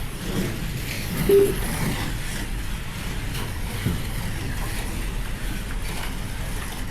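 Slot cars' small electric motors whirring steadily as they race round the track, with one short beep about a second and a half in.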